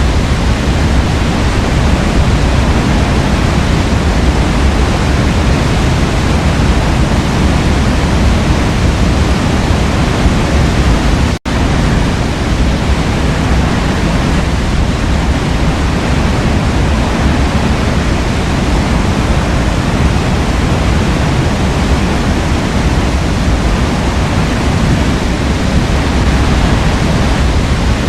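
Waterfall pouring steadily, a dense, even rush of water heaviest in the low end. It cuts out for an instant about eleven seconds in, then resumes unchanged.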